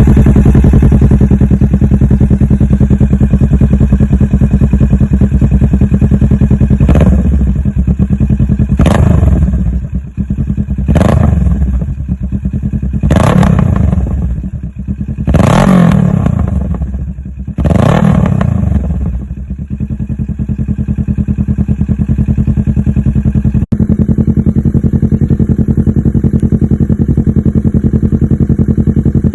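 Motorcycle engine idling through an SC Project aftermarket muffler, blipped six times in quick succession about two seconds apart. Each blip rises sharply and falls back before the engine settles into a steady idle again.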